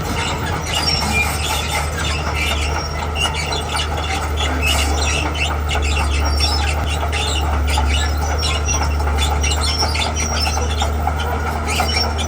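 Heavy tracked earthmoving machine (crawler bulldozer or excavator) working: a steady, loud low diesel engine drone with a continual run of short high-pitched squeaks and clicks, typical of steel tracks and undercarriage moving.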